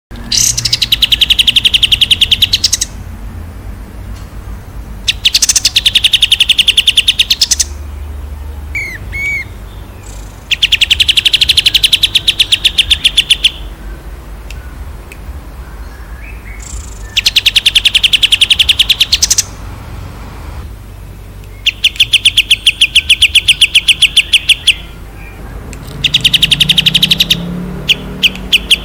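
Songbird singing long, fast trills: six loud phrases of rapidly repeated notes, each lasting two to three seconds, with short pauses between.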